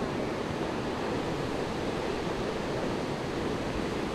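Surf from a storm swell breaking and washing ashore in a steady, continuous wash of noise, with wind buffeting the microphone.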